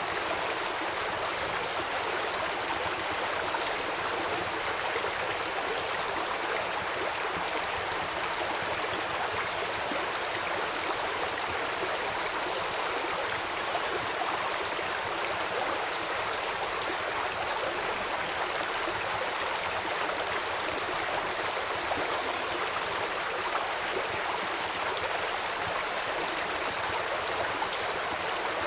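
River water flowing steadily, an even rushing wash. Faint short high chirps repeat about once a second through the first third and again near the end.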